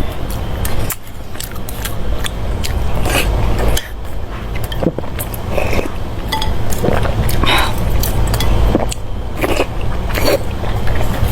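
Close-miked eating: biting and chewing food, with irregular wet mouth clicks and smacks over a steady low hum.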